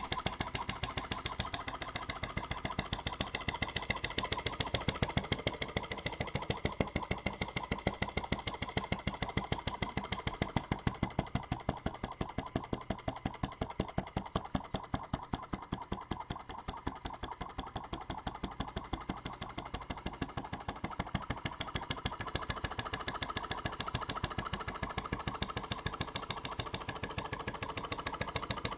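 Model flame-eater (vacuum) engine running steadily with a fast, even rhythm of short strokes.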